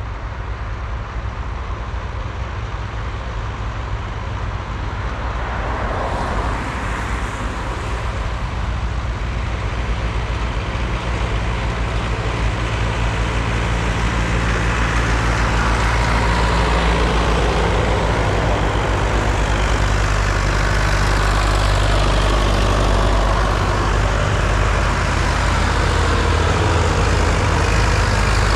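Vintage diesel tractor engines running on the road, with a steady low engine note that grows louder as the tractors draw closer.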